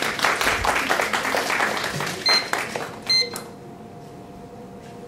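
Audience applauding for about three seconds, with two short high dings near the end of the clapping, then quiet room tone.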